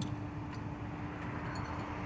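Vehicle running: a steady hum over a low rumble and road-like noise, with a few faint ticks.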